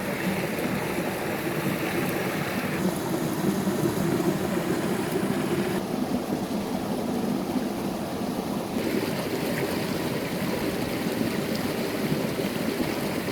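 Steady rushing noise of running water, its tone shifting abruptly about every three seconds.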